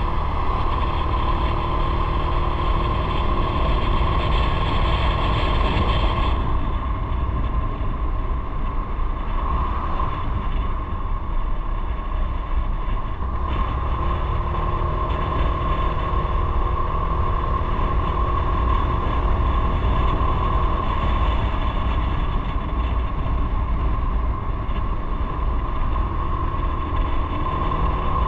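Motorcycle running steadily on the move, with a constant heavy low rumble of riding noise and a steady engine note.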